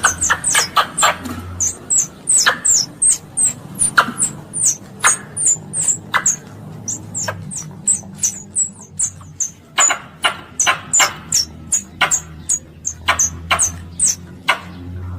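Squirrel (tupai) calling: a rapid, unbroken run of short, high-pitched chirps, each sliding downward from a sharp click onset, about three a second. This is the call used to draw other squirrels in.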